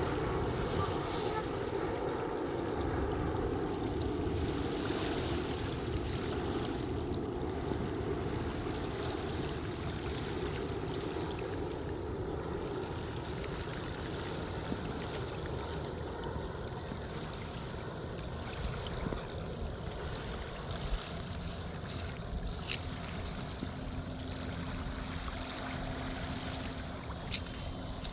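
Steady rushing of waves washing on a beach, mixed with wind on the microphone.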